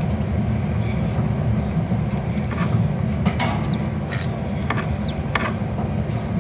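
Steady low rumble, with a few soft clicks and two short, high-pitched squeaks, one about three and a half seconds in and one about five seconds in.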